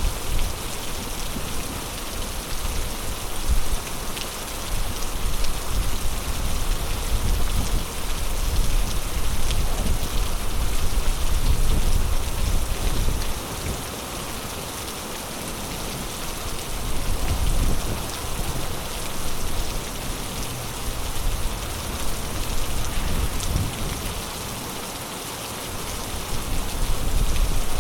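Heavy rain falling steadily as a dense, even hiss, with a low rumble underneath that swells and fades every few seconds.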